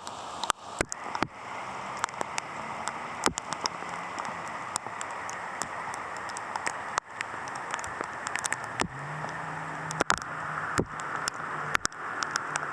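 Steady rain hiss with many sharp, irregular clicks of raindrops striking close by. A low vehicle engine hum comes in about nine seconds in.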